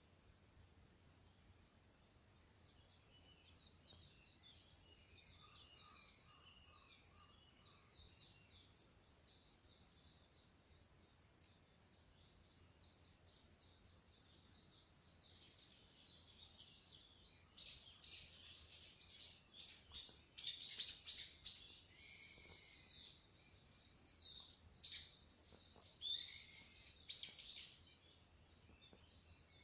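Wild birds singing outdoors: rapid series of high chirping notes, growing louder and more varied, with sweeping phrases, in the second half.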